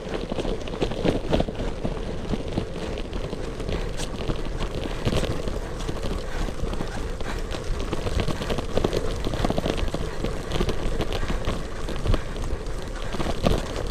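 Gravel bike riding over a rough unpaved road: tyre and road noise with irregular clicks and rattles from the bike, over a low rumble of wind on the microphone.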